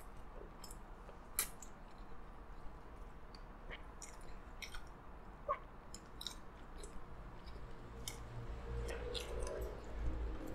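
A person chewing a mouthful of double cheeseburger close to the microphone: scattered soft, wet mouth clicks and smacks, with a low rumble that grows louder near the end.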